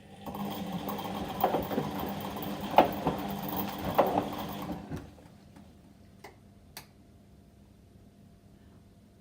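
Whirlpool washing machine's drum turning on a delicate wash for about four and a half seconds, with a motor hum and several knocks, then stopping. Two short clicks follow.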